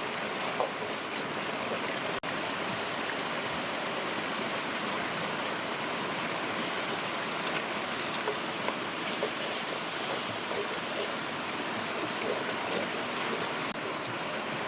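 Steady rushing of a small river waterfall and stream, with a few faint light clicks over it; the sound breaks off for an instant about two seconds in.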